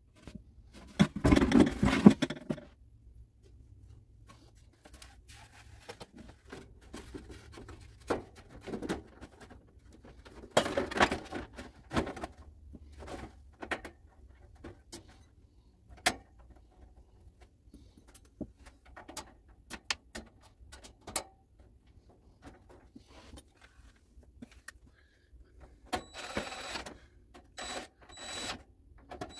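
Dehumidifier's plastic housing and parts being handled and fitted back together: irregular clicks, knocks and rattles. There are louder clatters about a second in and about eleven seconds in, and a run of them near the end.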